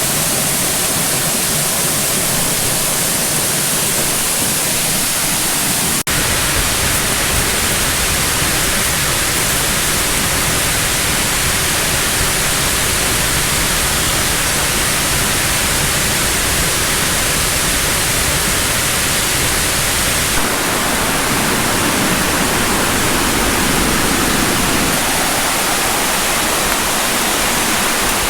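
Waterfall and cascading creek water rushing, loud and steady, with one short click about six seconds in.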